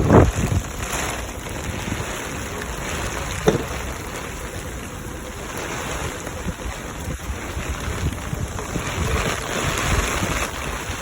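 Heavy storm rain with gusting wind buffeting the microphone, a steady rushing hiss with low rumbling gusts. A single brief knock sounds about three and a half seconds in.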